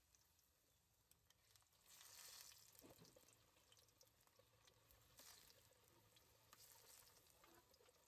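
Near silence: a faint hiss with scattered soft crackles, swelling briefly about two seconds in.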